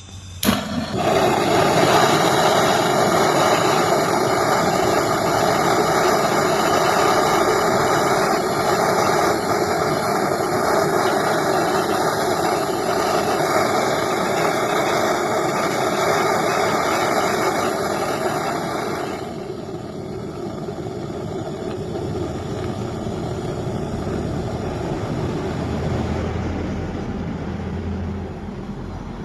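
Gas welding torch flame burning with a loud, steady rushing noise while a refrigerator's copper gas pipe is brazed. A sharp click comes just before it starts, and about two-thirds of the way through the flame noise drops to a quieter, duller sound.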